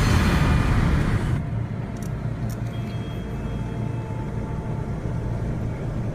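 Seoul subway train running, heard from inside a packed car: a steady low rumble with hiss over the first second or so, then an even rumble with faint steady tones.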